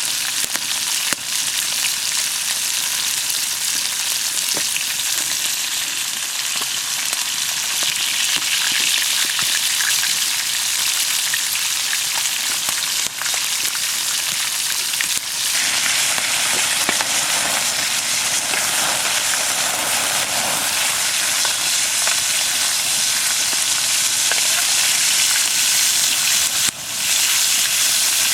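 Food sizzling as it fries, a dense steady hiss that changes in tone about fifteen seconds in and dips briefly near the end.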